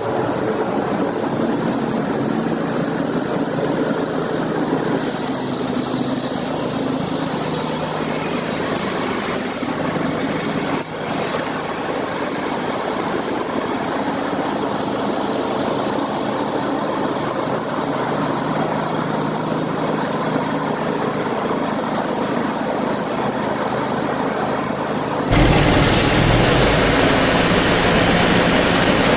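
An engine running steadily, with a brief dip about eleven seconds in. In the last few seconds it turns louder and deeper.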